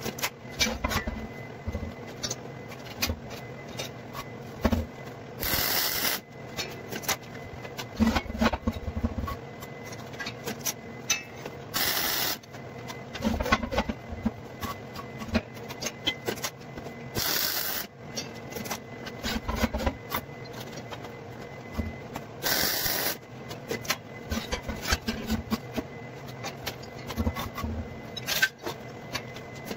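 Electric arc welding crackling and spitting in short runs, with brief louder bursts every few seconds, as hoops of an armillary sphere are welded together.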